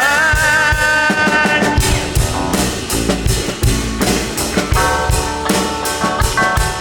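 A band playing an instrumental passage on drum kit and guitar, opening with a held, wavering note that fades after about two seconds.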